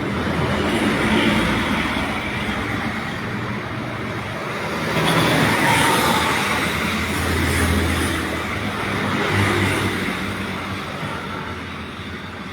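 Motor vehicle noise, rising and falling, with several louder swells through the middle.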